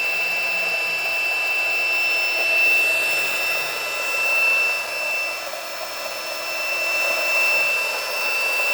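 Electric air pump running steadily with a constant high whine, inflating an inflatable snow tube.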